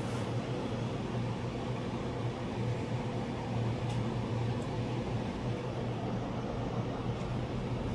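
Central air conditioner's outdoor condensing unit running: a steady low hum from the compressor under a constant rush from the condenser fan.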